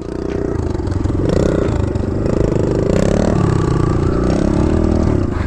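Kawasaki KLX110 small four-stroke single-cylinder dirt bike engine running under throttle, getting louder in the first second and then holding, its pitch wandering up and down.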